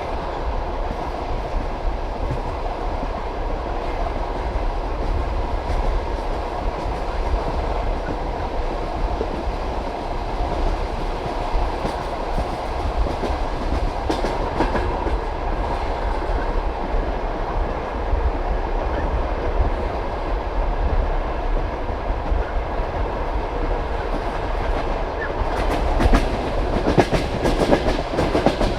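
Passenger train carriage wheels running on the track, heard through an open window: a steady rolling rumble with wheel clatter over the rail joints. A quicker run of sharp knocks comes near the end.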